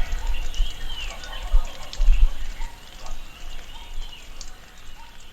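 Tropical rainforest ambience: many birds chirping with short, repeated arched calls over faint steady background noise. There are a couple of low thuds about two seconds in, and the whole gradually gets quieter toward the end.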